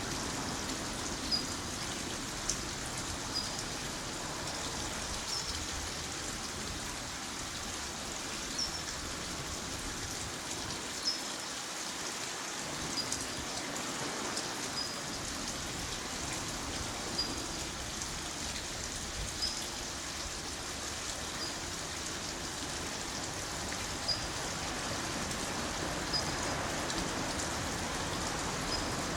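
Steady rain falling, with occasional short, sharp ticks over the even hiss.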